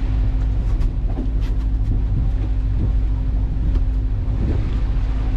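Sailing yacht's engine running steadily, a low drone with a steady hum, while the boat motors toward a harbour entrance.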